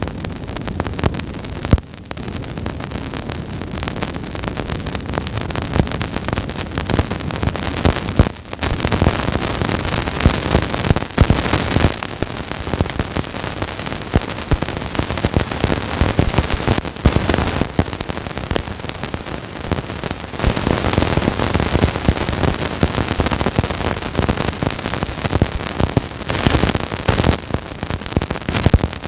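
Dense crackling static: a spacecraft's radio or plasma-wave recording turned into sound, with a couple of brief dips about two and eight seconds in.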